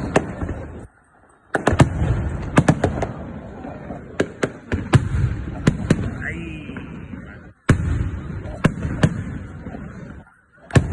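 Fireworks going off: rapid clusters of sharp bangs over a steady rumble, with a short rising whistle about six seconds in. The sound drops out briefly about a second in and again near the end.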